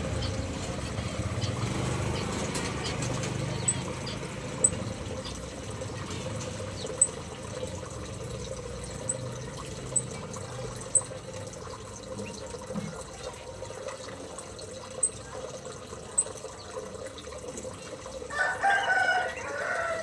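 Aviary birds: short high chirps every second or so, and near the end a rooster crowing once for about a second and a half, the loudest sound.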